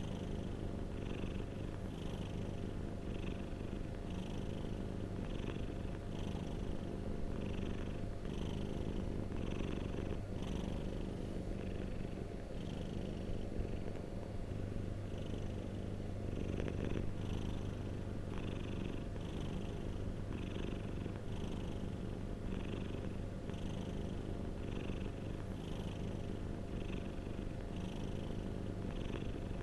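Domestic cat purring close up, a continuous low rumble that rises and falls softly with each breath, a little more than once a second.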